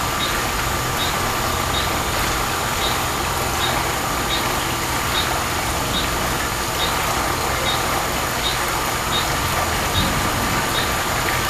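Outdoor ambience under a gathering thunderstorm: a steady low rumble and hiss, with a steady high insect-like drone and a short high chirp repeating about five times every four seconds.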